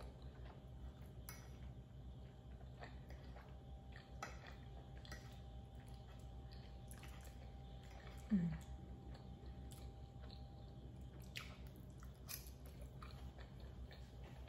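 Faint close-up chewing of creamy pasta and breaded chicken, with scattered small clicks over a steady low hum. About eight seconds in comes a short, falling vocal "mm", the loudest sound.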